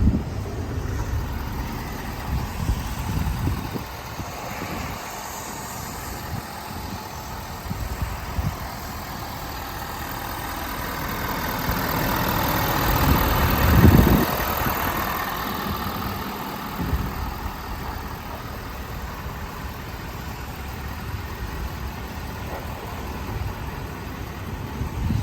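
A Ford F-250 pickup's engine idling steadily, with a louder swell that builds and peaks about halfway through before fading back.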